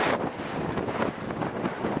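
Strong gusty wind buffeting the microphone, a rough, uneven rushing that swells and dips.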